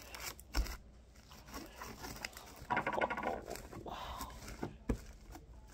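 Hands squishing and pulling sticky homemade slime made with shaving cream and glitter, giving wet crackling and tearing sounds. The sound is busiest around the middle.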